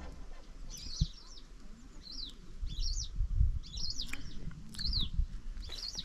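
A bird calling again and again, with short, high chirps that curve up and down in pitch, roughly one a second. A low rumble runs underneath, and there is a single sharp knock about a second in.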